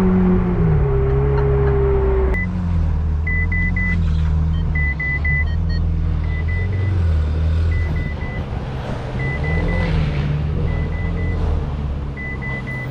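Car engine running with a steady low hum while a parking-sensor or reversing beeper sounds in quick runs of two or three short high beeps, about every second and a half, starting about two seconds in.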